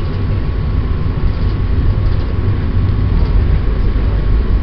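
Steady low rumble of a moving Amtrak passenger train, heard from inside the car.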